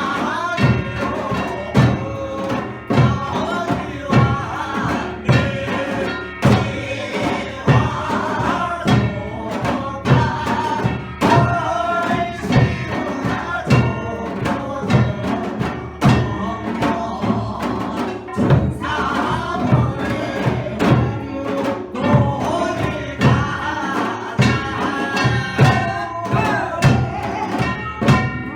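Samulnori percussion ensemble (janggu and buk drums with kkwaenggwari and jing gongs) playing a steady beat of drum strokes under singing voices, in byeongchang style where the players sing while playing.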